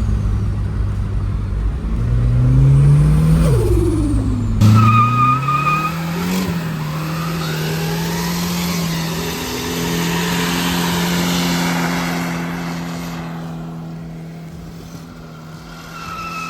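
Turbocharged Mitsubishi 4G54 four-cylinder engine revving hard, its pitch rising and falling, then held at high revs while the rear tyres squeal in a burnout. The sound changes abruptly about four and a half seconds in and fades toward the end.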